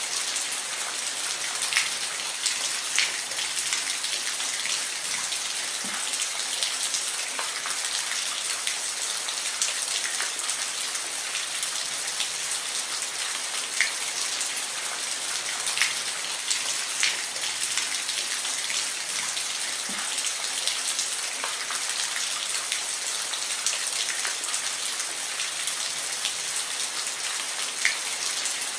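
Steady rain falling, an even hiss with scattered sharp drop ticks standing out every second or two.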